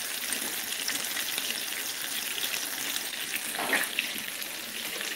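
Meatballs frying in hot grease in a skillet: a steady crackling sizzle.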